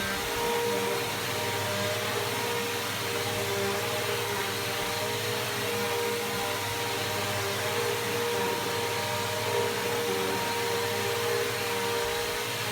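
Bissell PowerForce Helix Turbo upright vacuum cleaner running steadily: a constant motor whine over the hiss of rushing air.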